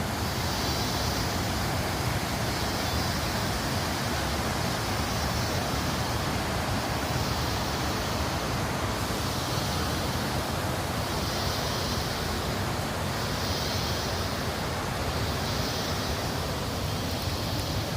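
Steady outdoor rushing noise, like running water or wind, with a high buzzing that swells and fades about every second and a half.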